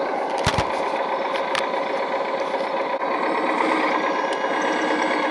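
1/14-scale RC hydraulic construction machine running: a steady mechanical hum and whine from its electric hydraulic pump and drive, with a couple of sharp knocks about half a second in.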